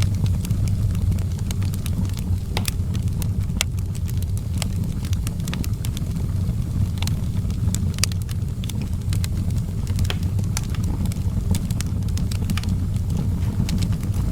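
Outdoor wood fire burning with a steady low rumble and frequent irregular sharp crackles and pops.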